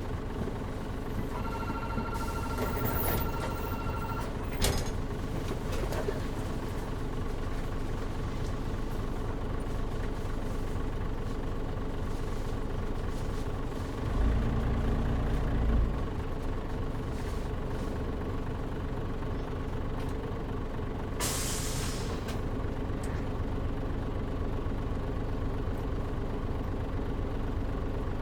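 Cabin sound of a 2003 Mitsubishi Fuso KL-MP37JM city bus, its diesel engine running steadily with the air conditioning off. A steady electronic tone sounds for about three seconds near the start, a low rumble comes in about halfway, and a short hiss of compressed air follows later.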